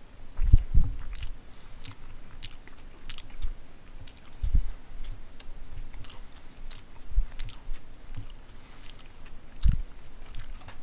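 A person chewing a mouthful of submarine sandwich with the mouth closed, with many small irregular clicks and a few low thumps, the loudest near the start.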